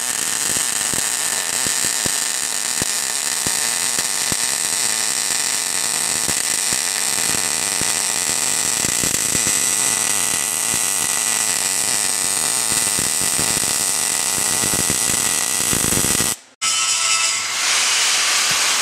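Plasma cutter cutting steel frame rail: a steady, loud hiss with a buzzing edge. It cuts off abruptly about sixteen seconds in, then a rougher hiss starts again.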